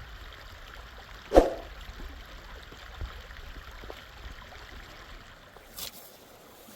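Running water of a mountain stream, with one sharp knock about a second and a half in and a few faint clicks after it.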